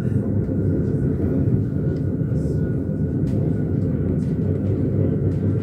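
Steady rumble of an S-Bahn commuter train running along the track, heard from inside the carriage.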